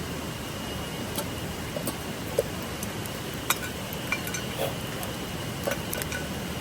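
Small clinks and taps of camp cookware and utensils, about eight light strikes spread unevenly, over a steady rush of flowing river water.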